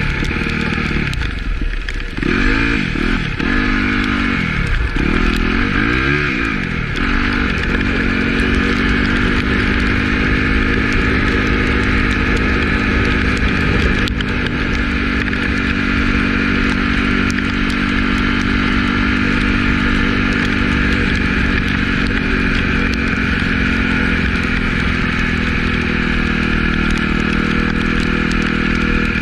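Yamaha YZ250F dirt bike engine revving up and down through several quick rises and falls in the first seven seconds, then holding a steady pitch under constant throttle, easing off near the end.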